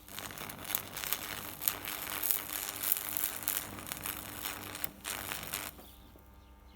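Stick (arc) welding: the electrode's arc crackling and spitting irregularly. It cuts off abruptly near the end, leaving a low steady hum.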